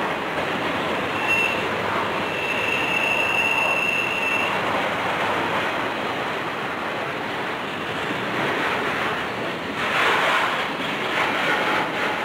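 Intermodal freight cars carrying highway trailers rolling past close by on a curve, with a steady rumble and rattle of wheels on rail. About a second in, a high, steady wheel squeal sets in and holds for about three seconds. A louder clatter follows near the end.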